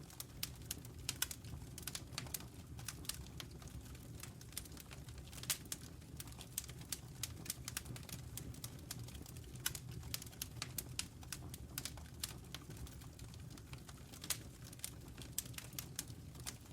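Wood fire burning in a fireplace, with irregular crackles and pops over a steady low rumble of the flames.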